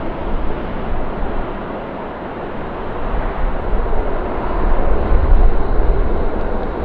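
Airbus A319 jet engines running, a steady rush of engine noise with a deep rumble that builds from about three seconds in.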